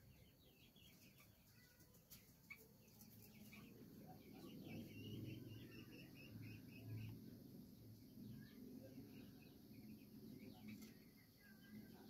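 Faint, quick bird chirps and twittering, thickest in the first few seconds and again near the end, over a low, uneven rumble that grows from about four seconds in.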